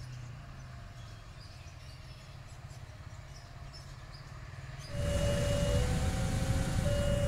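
Faint low engine rumble with birds chirping. About five seconds in, the sound cuts to a much louder rumble from an oncoming train, with a few held musical notes over it.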